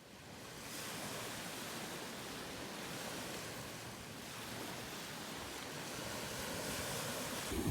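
Lake Superior waves washing onto a beach: a steady surf sound that swells and eases slightly.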